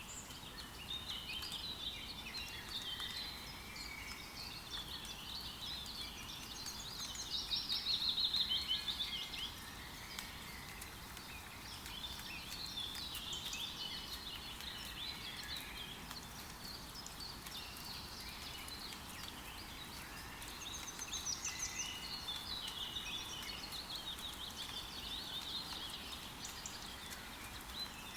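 Several forest birds chirping and trilling over a steady patter of rain, with a loud run of fast, repeated notes about eight seconds in.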